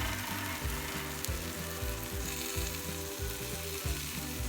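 Hot air-fried chicken in the basket sizzling with a steady hiss, under background music with a stepping bass line and held chords.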